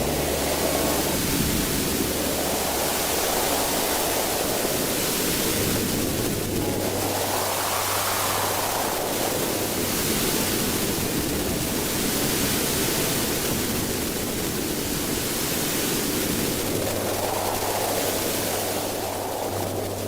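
Strong wind blowing in gusts: a steady rushing noise that swells and eases several times.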